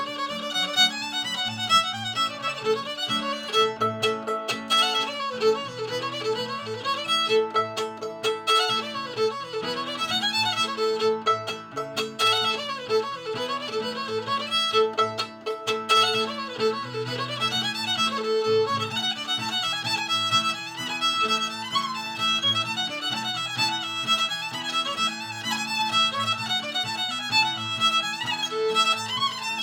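Fiddle playing a tune, its upper notes sliding and wavering, over a steady run of lower accompanying notes.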